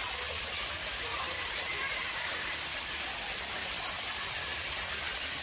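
Water flowing in a man-made pond, a steady, even rush of splashing water.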